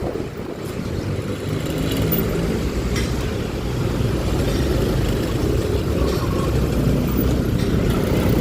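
Engine of a Honda Click 125i single-cylinder scooter running under way, with road and wind noise. It picks up a little over the first couple of seconds, then holds steady.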